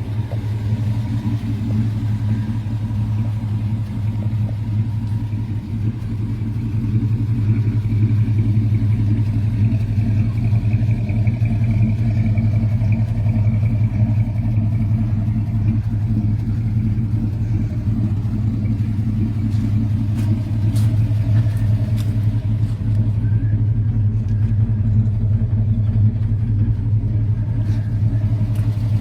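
1975 Chevrolet C20 pickup's 350 V8 running steadily, getting louder about seven seconds in.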